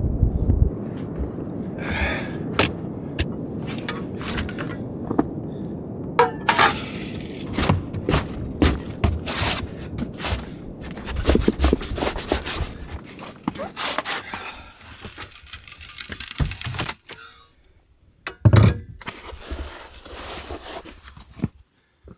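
Wind rumbling on the microphone for the first dozen seconds or so, overlaid with a run of knocks, clicks and scrapes from handling and moving about. Then sparser clicks, with one sharp knock near the end.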